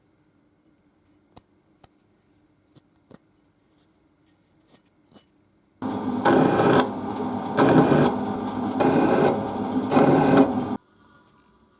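A few light clicks, then about halfway through four hard scraping strokes by hand on metal, each swelling and easing about a second apart, cutting off suddenly near the end.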